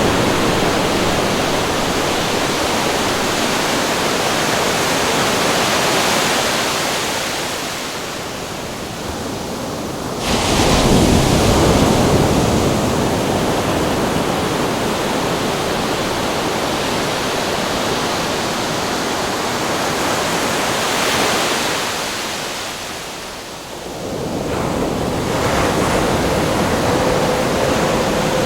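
Ocean surf and wind: a steady rushing noise that swells and ebbs, with a sudden louder surge of surf about ten seconds in. A faint whistle of wind comes in near the end.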